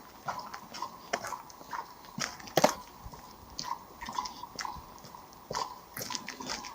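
Walking footsteps crunching on a gritty or gravelly path, at an uneven pace of roughly two steps a second.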